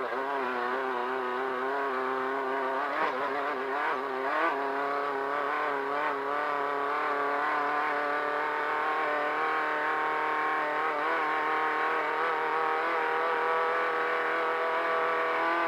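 Off-road race car engine running hard at high, fairly steady revs, heard from inside the car, with its pitch briefly dipping and wobbling about three to four seconds in.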